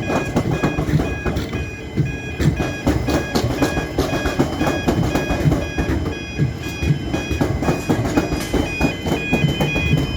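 Electric train running past with a continuous rumble and rapid wheel clatter, overlaid by a set of steady high whining tones that hold and then step in pitch.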